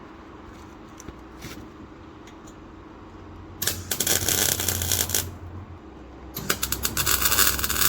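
Welding arc tacking the exhaust section together: two bursts of crackling, the first about halfway through, the second near the end.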